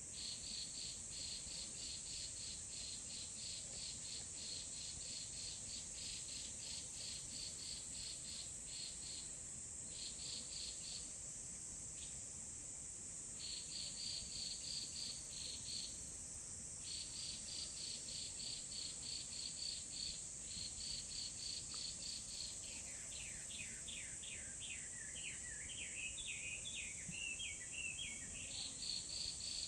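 Insects chirping in rapid even pulses, about three or four a second, in phrases broken by short pauses, over a steady high-pitched hiss. From about 23 to 28 seconds a songbird sings a run of quick sliding notes.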